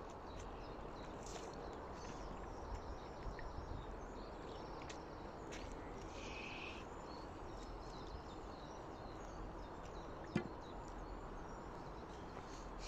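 Quiet outdoor background noise with faint bird chirps, a clearer bird call about six seconds in, and a single sharp knock about ten seconds in.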